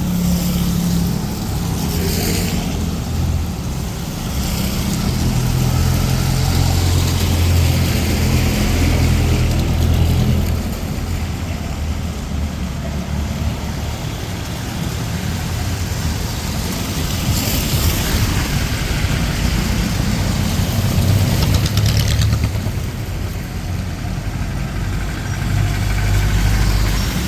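Street traffic: motor vehicle engines running and idling close by, a steady low drone with a steady hiss over it, swelling briefly about two seconds in and again past the middle as vehicles pass.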